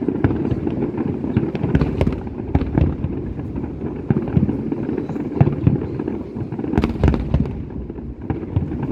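Fireworks display in a dense barrage: a continuous low rumble of overlapping bangs and crackles, with a sharper crack about seven seconds in.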